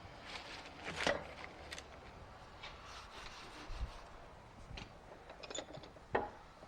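Hand tools scraping and knocking against metal mower parts during thread-repair work, with short scraping strokes and a few sharper knocks about a second in and near the end.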